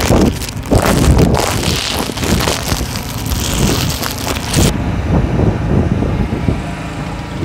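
Go-kart engines running, with wind noise on the microphone; the hiss drops out abruptly about two-thirds of the way through.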